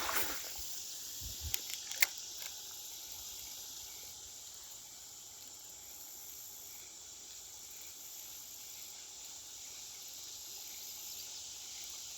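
Steady high-pitched insect chorus of crickets or cicadas, with a few sharp clicks about two seconds in.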